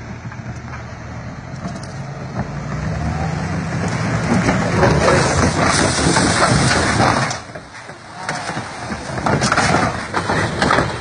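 Heavy vehicle engine running, then a loud crunching, scraping crash noise lasting a few seconds, a brief lull, and a second loud burst of crunching.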